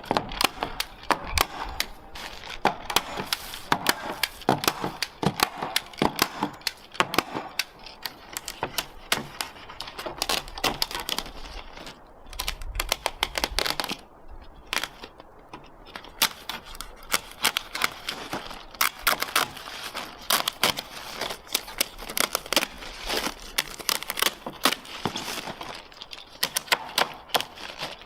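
Rapid, irregular sharp clicks and taps, several a second, with a short lull about halfway through.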